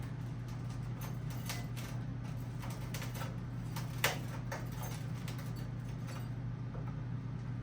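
A steady low hum with scattered light ticks and one sharper click about four seconds in.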